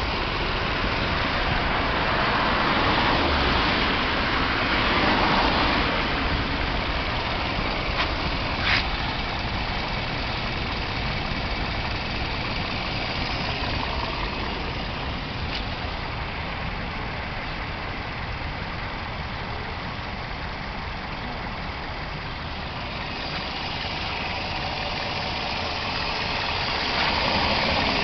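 Toyota 1NZ 1.5-litre four-cylinder engine running hot, idling and revved up a few seconds in and again near the end, with the knock and vibration the owner is showing. A couple of sharp clicks about eight seconds in.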